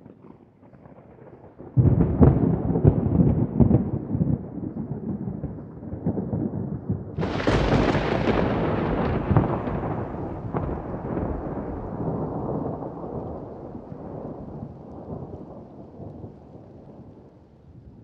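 Thunder: a faint rumble breaks into a loud low clap about two seconds in, then a second, sharper crack about seven seconds in that rolls on and slowly fades away.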